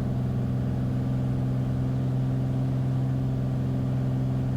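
Beechcraft Bonanza's piston engine and propeller droning steadily, heard from the cockpit.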